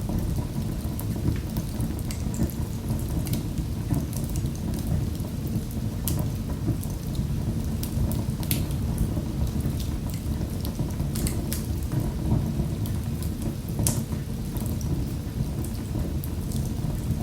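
Wood fire in a fireplace crackling: a steady low rumble with many scattered sharp crackles and pops.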